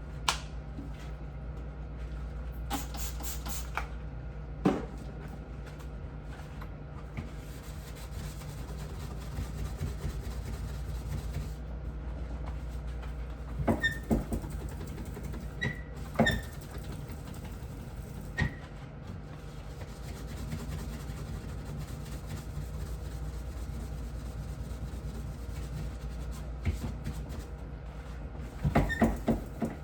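Scattered knocks and clicks of objects being handled, the busiest stretches about halfway through and near the end, over a steady low hum.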